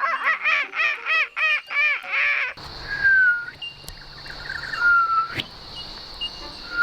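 A rapid run of repeated honking bird-like calls, about four a second, which stops about two and a half seconds in. Then a steady high insect drone, with a few drawn-out whistled bird calls over it.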